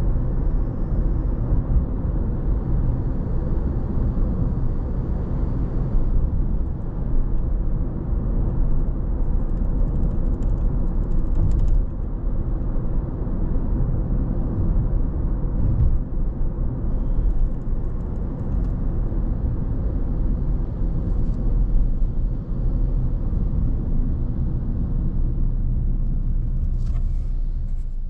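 Steady low rumble of a car driving on the road: engine and tyre noise, with a few faint ticks.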